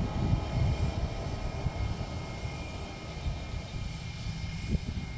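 Jet airliner engines running, a steady high whine over a low, uneven rumble, recorded on a phone's microphone.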